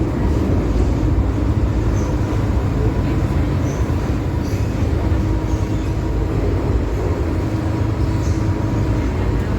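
MTR Kwun Tong line M-Train running between stations: a steady, even rumble of wheels on rails with a faint steady hum, and a few brief high squeaks now and then.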